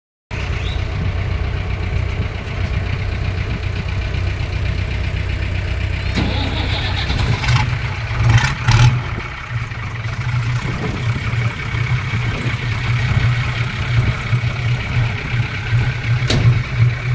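Tractor engines running steadily with a low rumble. A few sharp knocks come about halfway through and one more near the end.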